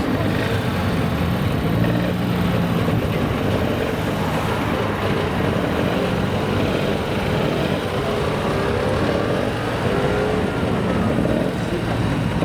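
A car engine running steadily, its pitch gliding up and down in the second half.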